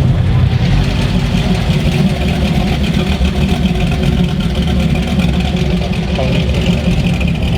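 A car engine idling steadily close by.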